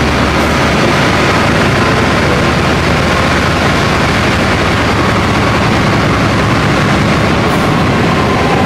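Passenger train running slowly, a loud steady rumble and noise that holds without change.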